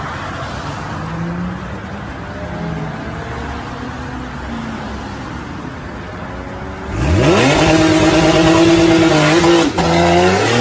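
Porsche 911's flat-six engine running at low revs, then about seven seconds in revving sharply and accelerating hard, much louder. A brief drop in sound comes near the end before the revs climb again.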